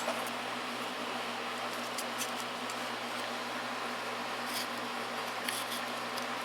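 Steady low background hum with a few faint, brief clicks of small objects being handled.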